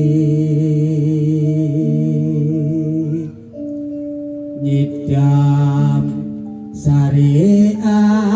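A Javanese song performed live: a singer holds long, wavering notes over sustained electronic keyboard chords. The sound drops back briefly a little past three seconds in, then the band comes back in full.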